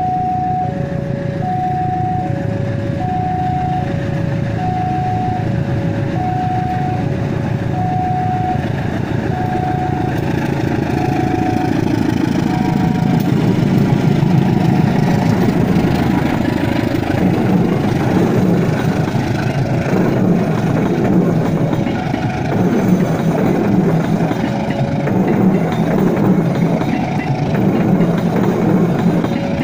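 A two-tone electronic warning signal alternates high and low about twice a second and dies away about twelve seconds in, over the growing rumble of a CC 201 diesel-electric locomotive passing. Then the passenger coaches roll by with a steady rhythmic clatter of wheels over rail joints.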